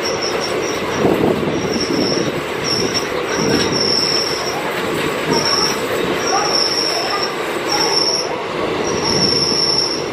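Running noise of two trains passing side by side, heard from the open window of a moving passenger coach: a steady rumble and rattle of wheels on rail beside a goods train of BOXN open wagons. Short high-pitched metal wheel squeals come and go about every second.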